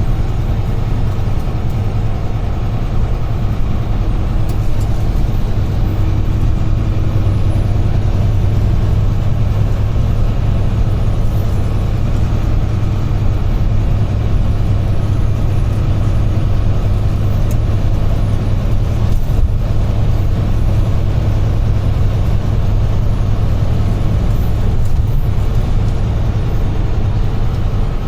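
UD Trucks Quon heavy truck running steadily at cruising speed: a constant low engine drone under even road and tyre noise.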